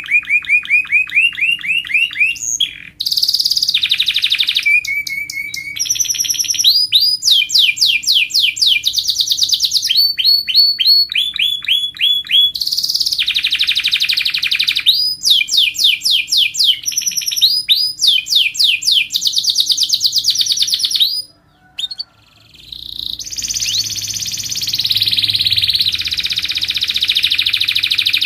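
Canary song for tutoring young canaries: fast runs of the same note repeated many times, each run giving way to a new phrase every second or two. After a brief break about three quarters of the way through, a denser rolling trill follows.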